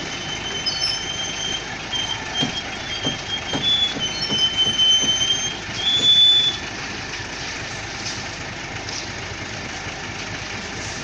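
Concrete mixer truck running with a steady rumble, joined by a high, wavering metallic squeal and some knocks for about six seconds; the squeal is loudest about six seconds in, then stops and the rumble carries on.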